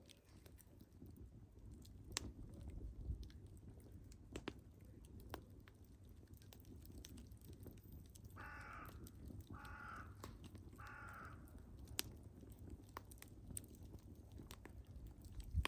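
Wood fire crackling faintly, with scattered sharp pops. About halfway through, a bird calls three times in quick succession.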